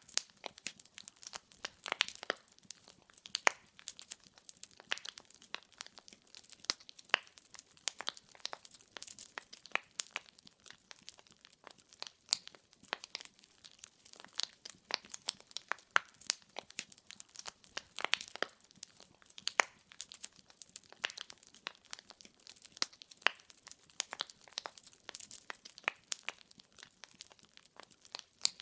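Wood logs burning in a fireplace, crackling: a continuous run of irregular sharp pops and snaps over a soft hiss.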